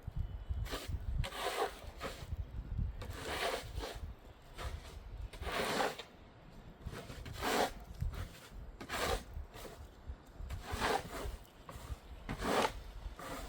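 A heavy snow scraper being pushed along a sidewalk edge, scraping off packed snow and ice in repeated rasping strokes, about one every one to two seconds.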